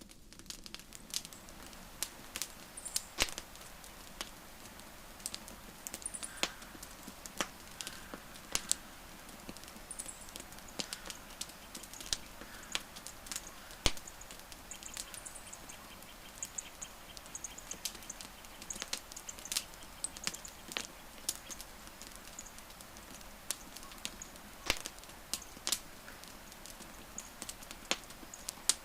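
Wood fire crackling, with many irregular sharp pops and snaps over a faint steady background, the loudest pop about halfway through. Faint brief high chirps come and go throughout.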